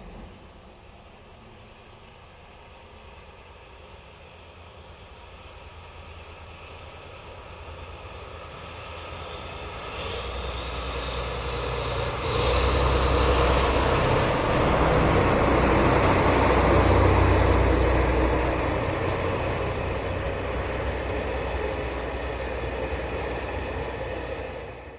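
A train carrying KiHa 283 series diesel railcars approaching and passing, a heavy rumble with rail noise that builds over about ten seconds and turns loud about halfway through. A faint high whine sits over it while it is loudest, and the sound cuts off suddenly at the end.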